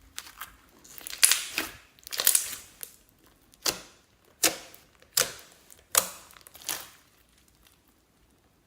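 Slime being squished and pressed by hand, a series of about seven crackling squelches spaced under a second apart, then stopping near the end.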